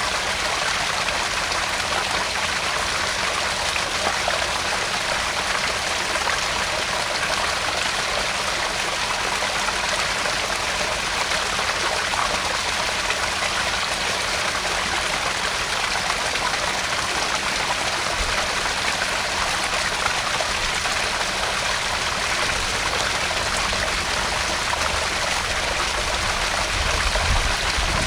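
Garden pond waterfall: water splashing and trickling steadily into the pond, with a brief low rumble near the end.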